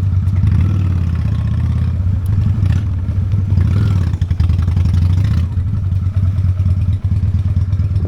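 Honda Steed V-twin motorcycle engine idling steadily at low revs, with a fast, even low throb.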